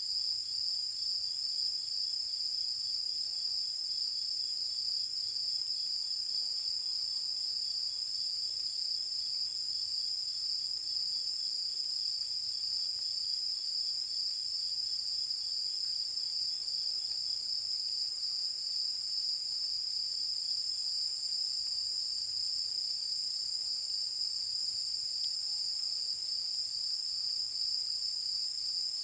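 A dense, steady chorus of night insects singing high-pitched. A fainter, lower pulsing call among them stops a little past halfway through.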